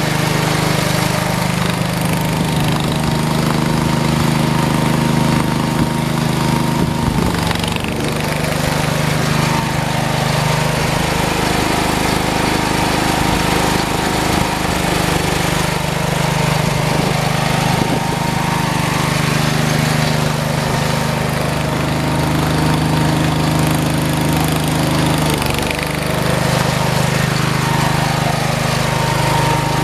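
Small garden tractor engine running steadily while plowing snow, its pitch dipping briefly about a quarter of the way in and again near the end.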